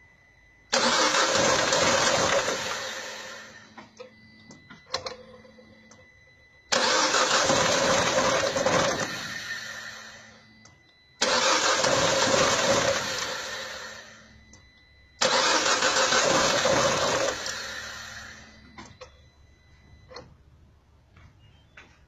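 EP6 1.4-litre 95 hp petrol engine being cranked to start four times. Each attempt begins suddenly, runs for a couple of seconds and then dies away, and the engine does not keep running: the starting fault the engine has.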